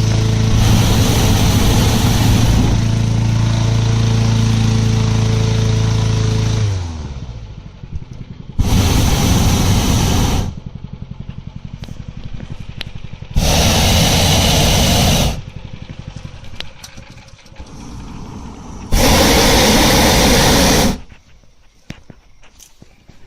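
Hot-air balloon propane burner firing in three separate blasts of about two seconds each, a loud even roar. Before them a small engine runs steadily with a burner blast over it, then winds down about seven seconds in.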